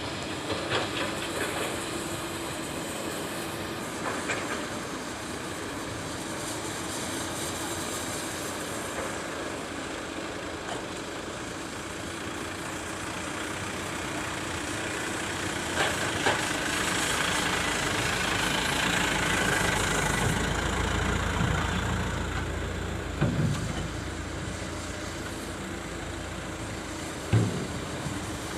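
Excavator diesel engine running steadily, working harder for several seconds about midway, with a few sharp clanks.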